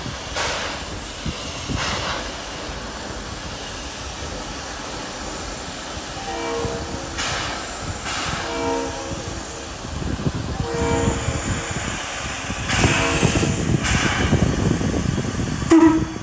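Train horn sounding three short blasts of a several-tone chord, over the low rumble of a passing train with bursts of hiss. A short, loud tone near the end.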